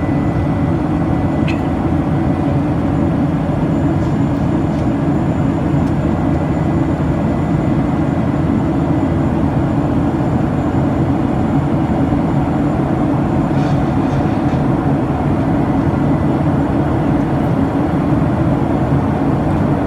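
Steady low roar of a Boeing 737-800's CFM56 engines and airflow, heard from inside the passenger cabin.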